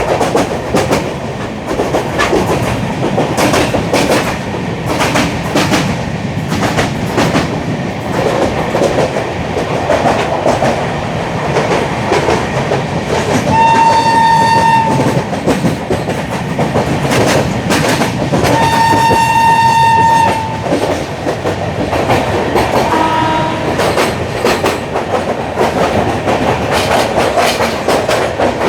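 LHB passenger coaches running at speed: a steady rumble of wheels on rail with frequent sharp clicks over rail joints. The WAP7 electric locomotive's shrill horn sounds about halfway through, again a few seconds later for a longer blast of about two seconds, and once more as a short, fainter toot.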